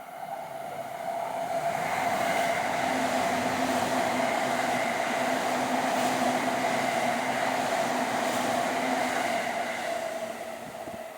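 Electric train passing: a steady rushing rumble with a constant hum that builds over the first two seconds, holds, and fades away over the last two.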